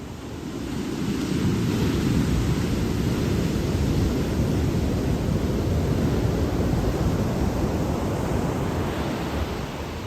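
Ocean surf washing in: a broad rush that swells about a second in and eases off near the end, with wind rumbling on the microphone.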